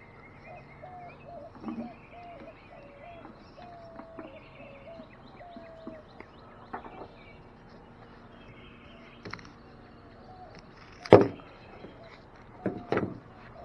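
Faint bird calls, a run of short repeated notes through the first six seconds, then a few sharp knocks, the loudest about eleven seconds in and two more close together near the end.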